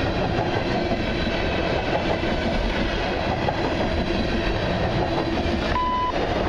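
Tank cars of a long CN freight train rolling past, a steady rumble of wheels clicking over the rails. Near the end comes a short steady beep, the tone that opens a trackside defect detector's radio report.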